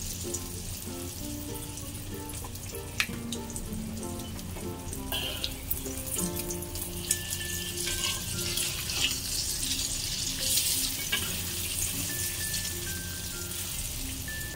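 Corn fritter batter sizzling in hot oil in a wok, with a metal spatula clinking and scraping against the pan a few times. The sizzling grows louder in the second half, and soft background music plays underneath.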